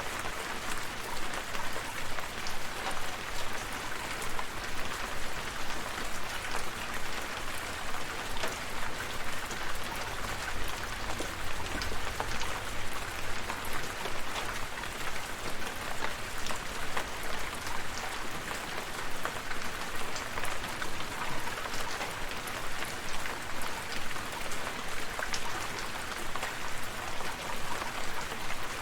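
Steady rain falling, with many individual drops heard as small ticks over an even hiss.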